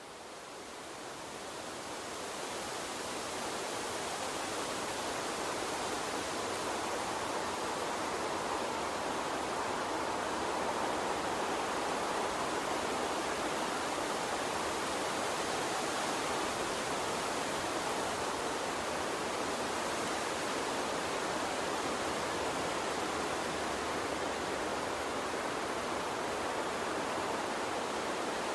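Water stream rushing in a steady, even hiss that fades in over the first few seconds and then holds level.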